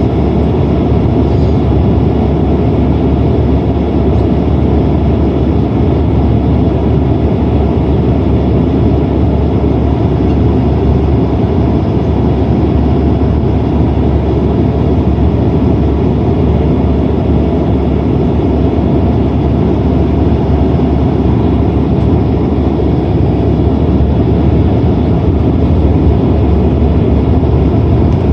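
Steady cabin noise of a Boeing 767-300ER airliner in flight: an even, unchanging rumble of engines and airflow, heaviest in the low range.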